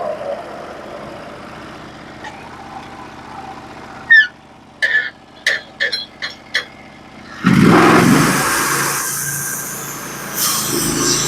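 Norwood HD36v2 bandsaw mill's gas engine running at low speed, then, after a quieter pause broken by about six short sharp squeaks or clicks, suddenly revving up loud at the start of the next board's cut.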